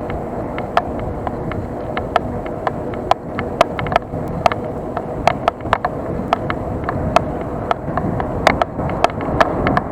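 Mountain bike being ridden, heard through an action camera's microphone: a steady rush of wind and rolling noise, with sharp irregular ticks and rattles about two or three times a second.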